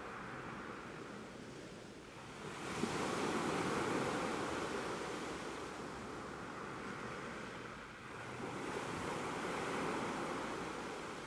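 Ocean surf: waves surging in and drawing back twice. One swells up about two and a half seconds in and slowly ebbs, and the next builds about eight seconds in.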